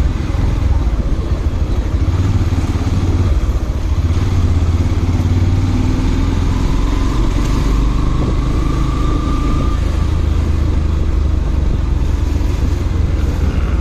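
Motorcycle running along the road, a steady low rumble throughout.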